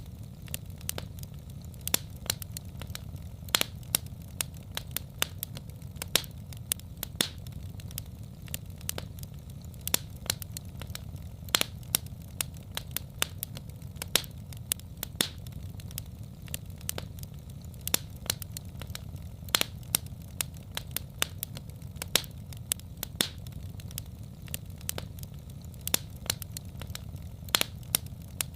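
Wood fire in a fireplace crackling: sharp, irregular pops and snaps, a few each second, over a steady low rumble.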